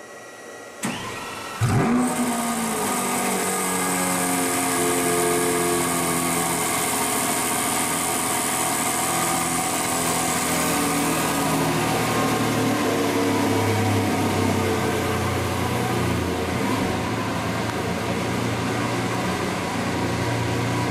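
Lamborghini Veneno Roadster's 6.5-litre V12 starting up: a click, then the engine fires about a second and a half in with a sharp rev flare. It settles into a high fast idle whose pitch slowly drops over the next ten seconds, then idles steadily.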